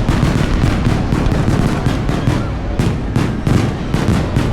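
Aerial fireworks going off in a rapid barrage: a dense run of sharp bangs and reports, thickest in the second half, over a continuous low rumble.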